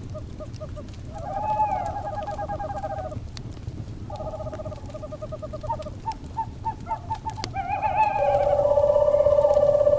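Wood fire crackling over a low rumble, with owls giving quavering, trilled calls twice, each lasting about two seconds. About eight seconds in, a loud, long steady tone begins and carries on.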